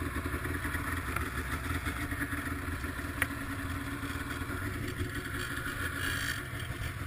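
Snowmobile engine idling steadily, with a single light click about three seconds in.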